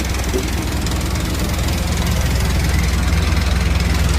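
Caterpillar C15 diesel engine of a Peterbilt 387 dump truck running steadily with a deep, even pulsing.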